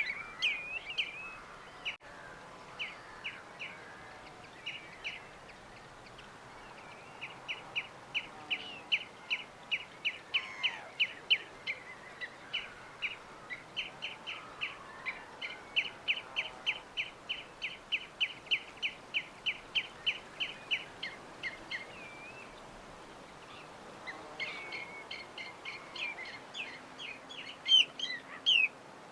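Small birds chirping. Through the middle comes a long run of short, even chirps, about three a second, with more varied calls at the start and near the end, over a faint steady hiss.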